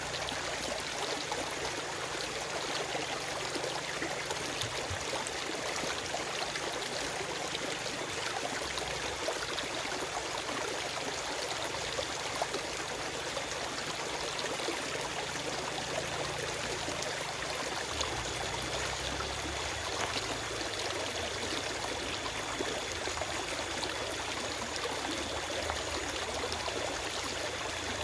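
Forest stream flowing steadily: a continuous rushing and trickling of water.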